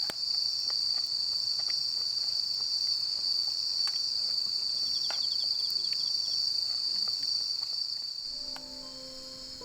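Crickets chirping in a steady high-pitched trill, with a few faint clicks scattered through. Soft piano music comes in near the end as the insect sound drops away.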